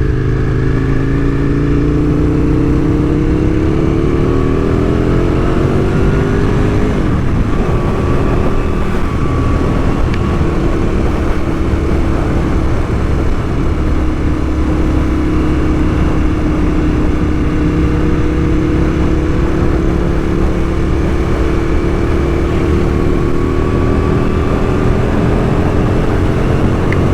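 Aprilia RSV1000 V-twin engine pulling up through the revs for about seven seconds, then a sudden drop at a gear change, then holding a steady cruise with a slow rise near the end. Wind and rain noise runs underneath.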